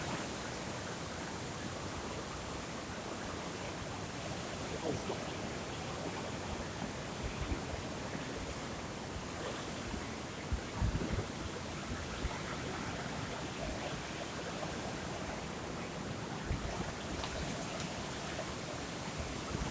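Steady wash of sea surf, with wind buffeting the microphone in a few low thumps, the strongest about eleven seconds in.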